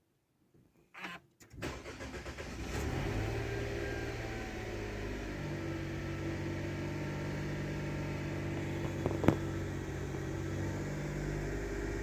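A new Mitsubishi Delica Mini's 660 cc three-cylinder engine is started. The starter cranks briefly about a second and a half in, the engine catches, and it settles into a steady idle. There is a single sharp click about nine seconds in.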